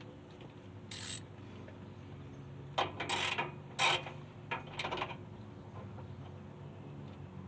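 Hand tools and car body parts clicking and clattering in a few short bursts, about a second in and again between three and five seconds in, over a steady low hum.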